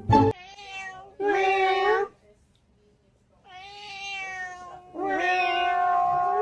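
A cat meowing three long, drawn-out meows, the second quieter and the last the loudest and longest.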